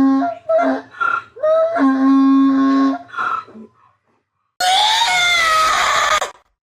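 Farm animal calls: a run of short pitched calls, two of them held on a steady tone, then after a short pause a loud, harsh cry lasting about a second and a half.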